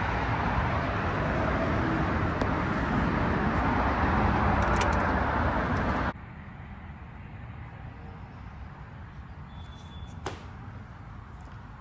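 Steady, loud vehicle and traffic noise that cuts off abruptly about six seconds in. It gives way to a much quieter background with one sharp click near the end.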